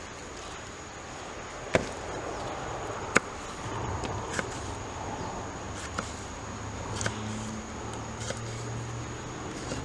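About six sharp clicks or knocks at irregular intervals, the loudest about three seconds in, over a steady faint background with a thin high tone.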